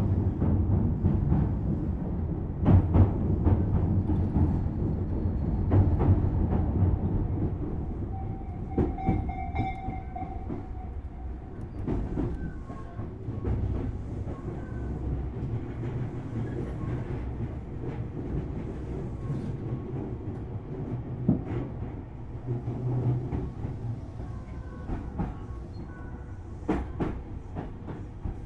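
Tobu Series 6050 electric train heard from inside the car, running along the line with a low rumble of wheels on rail and scattered clicks over rail joints. A brief squeal comes about nine seconds in, and the running grows somewhat quieter after the first several seconds.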